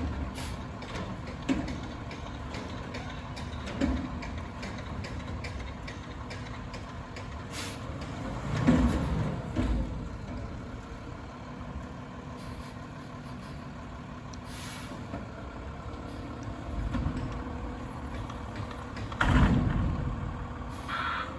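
Garbage truck running, with scattered short knocks and two louder surges, one about halfway through with a rising and falling pitch, and another near the end.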